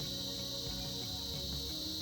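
A chorus of cicadas buzzing in one steady, high, continuous drone, with music playing underneath.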